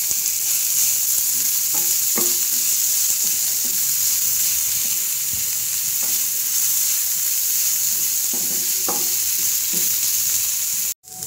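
Onions, garlic cloves and green chillies sizzling steadily in hot oil in a frying pan, stirred with a wooden spatula that scrapes the pan a few times. The sound breaks off for an instant near the end.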